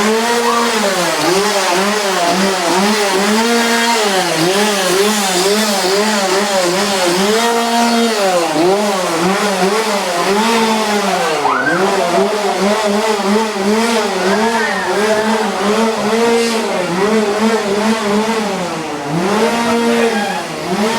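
A small engine, like a chainsaw's, revving up and down over and over, its pitch holding high and then dropping and climbing back again.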